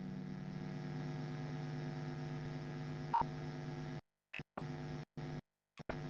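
Steady electrical hum with faint tape hiss in the silent gap between songs on a cassette playback, with a small click about three seconds in. For the last two seconds the hum cuts out to dead silence and comes back in short pieces.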